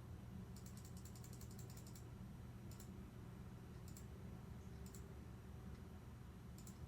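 Faint, sharp button clicks: a quick run of about a dozen, then four single clicks a second or so apart, over a low steady electrical hum.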